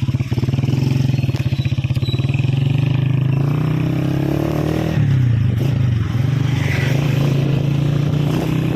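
Motorcycle engine running while riding, its pitch climbing steadily for the first few seconds, dropping briefly about five seconds in, then rising again.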